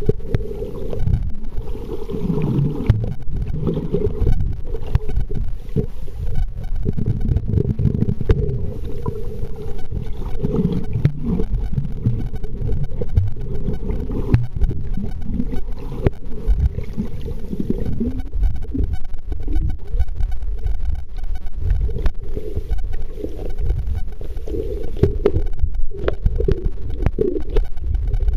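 Kodak Zx5 camera recording underwater with a steady mid-pitched buzz on its soundtrack, over changing low rumbling and scattered clicks. The buzz is a recording fault of the camera, which the owner hopes a software fix can cure.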